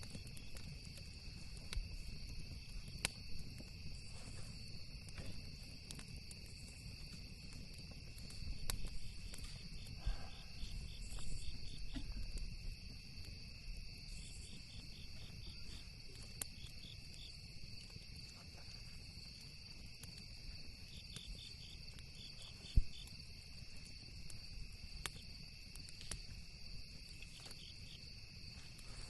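Crickets trilling steadily, with bursts of pulsed chirping, over scattered crackles and pops from a campfire. A low steady rumble runs underneath, and one pop about three quarters of the way through is louder than the rest.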